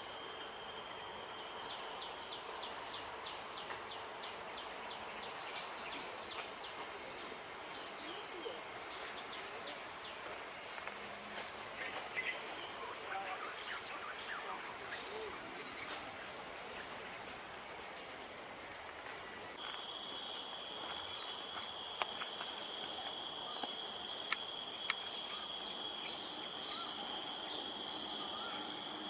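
Steady high-pitched drone of insects, several constant shrill tones layered over a soft hiss, with a run of faint quick ticks a few seconds in. About twenty seconds in the sound steps up abruptly and grows louder, with a new steady tone joining.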